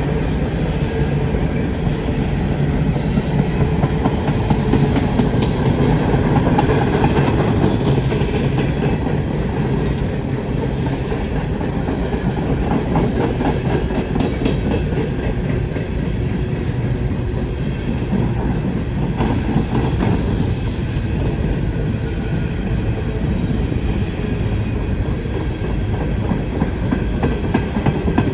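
A train passing at a steady speed, its wheels clicking over the rails.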